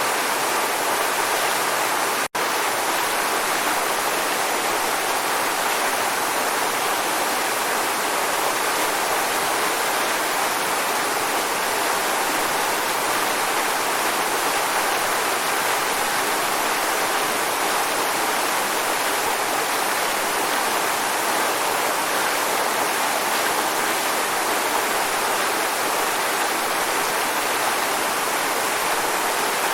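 Waterfall: a steady rush of falling water, even and unbroken except for a split-second dropout about two seconds in.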